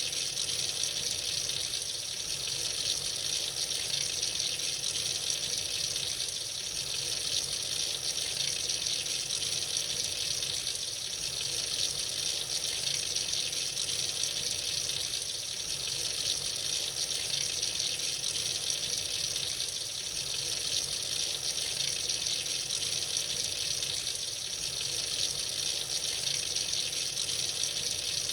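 Tap water running steadily from a faucet into a sink, a constant splashing hiss.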